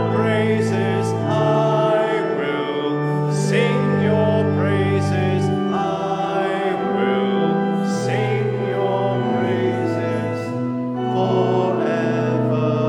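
Congregation singing a hymn together to organ accompaniment, the organ holding long, steady bass notes under the voices.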